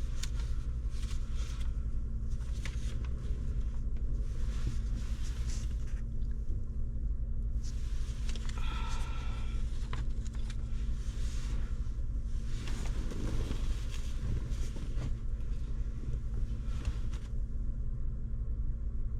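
Steady low rumble of a running vehicle with a constant hum, scattered light clicks and, about nine seconds in, a brief high-pitched tone; the sound cuts off suddenly at the end.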